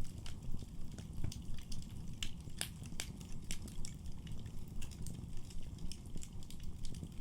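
Wood fire crackling in a fireplace: irregular sharp snaps and pops over a low, steady rumble of burning, with a few louder pops a little under halfway through.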